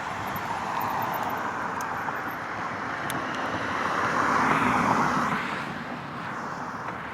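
A car passing by, its road noise swelling to a peak about four to five seconds in and then fading away.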